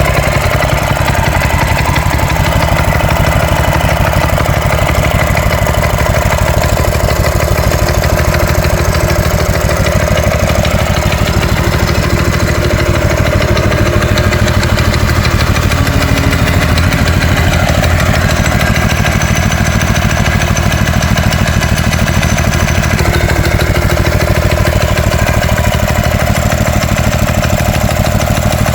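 Small single-cylinder gasoline engine running steadily at an even idle-like speed.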